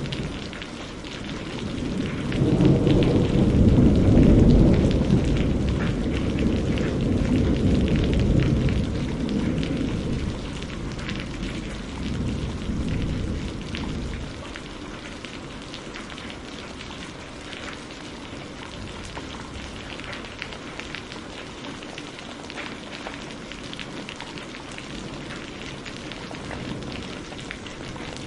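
Steady rain with a long roll of thunder that builds a couple of seconds in, peaks around four seconds and rumbles away over the next ten seconds.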